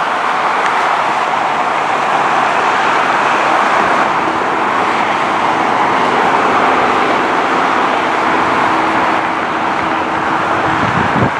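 Jet airliner engine roar, a loud steady rush that swells slightly in the middle, with a faint steady hum entering near the end.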